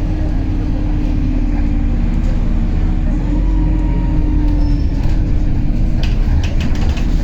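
MAZ-203 city bus heard from inside while moving: the diesel engine and drivetrain drone steadily, with a whine that rises slightly a few seconds in. A short run of sharp clicks and rattles comes near the end.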